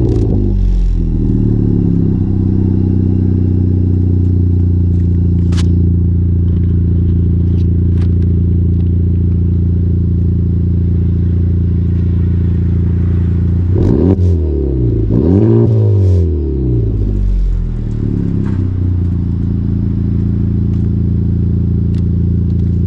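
Honda Civic Type R (FK8) turbocharged four-cylinder idling steadily through an AWE Track Edition aftermarket exhaust, with two quick throttle blips about two-thirds of the way in before it settles back to idle.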